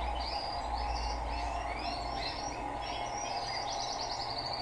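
Small birds chirping repeatedly, over a low steady hum from an Electrolux LTE12 washing machine filling with water; the hum drops away about three seconds in as the tub reaches its set water level.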